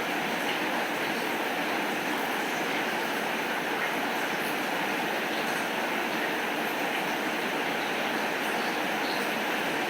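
Steady heavy rain falling, an even hiss with faint scattered patters.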